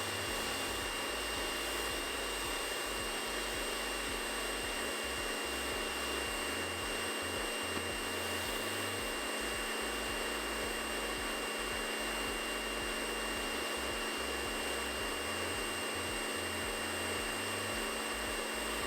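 Karcher K2 electric pressure washer running steadily while its snow foam cannon sprays at the highest flow rate: a steady whine over the hiss of the spray.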